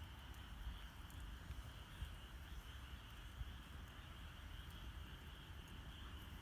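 Campfire crackling faintly with scattered small pops, under a steady high trill of night insects.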